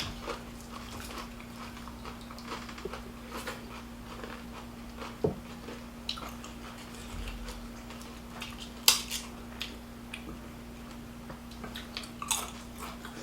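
Eating sounds: chewing with scattered small clicks and clinks of plates and utensils, a few sharper clinks among them, over a faint steady hum.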